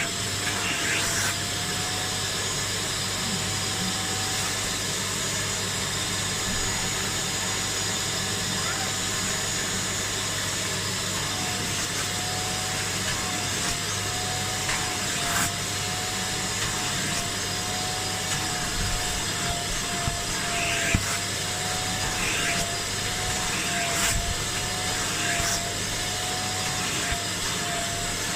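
Kärcher Puzzi 10/1 spray extractor's suction motor running steadily, with a whine that wavers slightly in pitch and a few short clicks.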